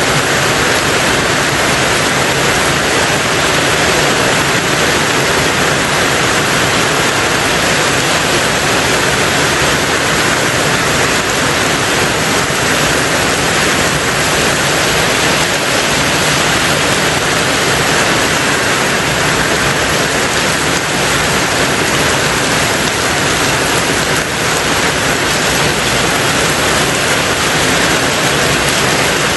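Heavy rain on a tin roof: a dense, unbroken hiss of drops on the metal, holding steady with no single strikes standing out.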